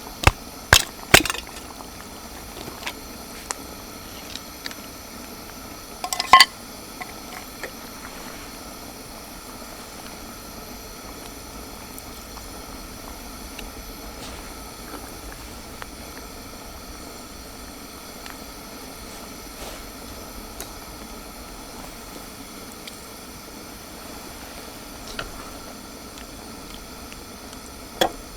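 A pot of stew bubbling steadily over a campfire, with a few sharp clicks near the start and a louder clatter about six seconds in.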